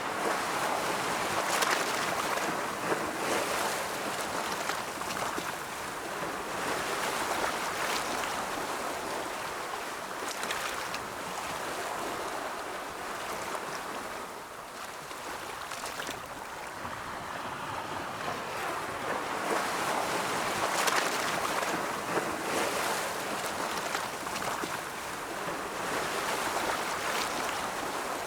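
Ocean waves washing onto a shore: a continuous rush of surf that swells and eases. It is louder in the first few seconds and again about twenty seconds in, with a lull in between.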